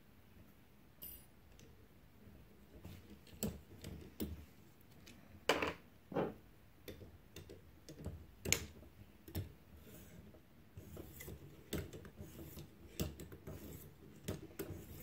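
Knife edge being worked in strokes on a ViperSharp guided sharpener: a run of irregular short scrapes and clicks while the burr is being taken off.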